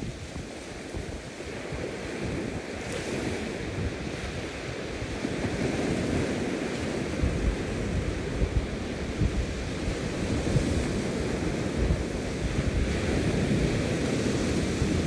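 Ocean waves breaking and washing in, a continuous rush of surf that grows a little louder a few seconds in, with wind noise on the microphone.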